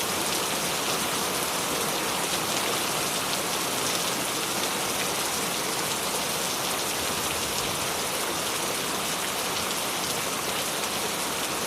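Steady rain falling on a surface, an even hiss with fine patter of individual drops and no thunder.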